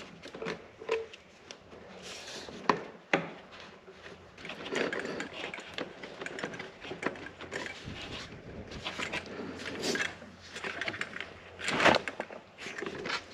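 Hose clamps and a rubber intake hose being handled and fitted by hand: irregular clicks, rustling scrapes and a few sharp knocks.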